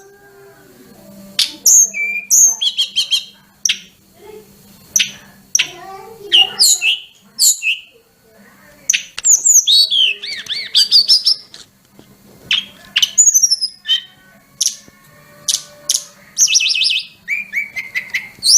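A tledekan gunung (sulingan gunung) songbird singing a varied run of sharp fluty whistles, quick chirps and rapid trills, with short pauses between phrases. A faint steady low hum lies underneath.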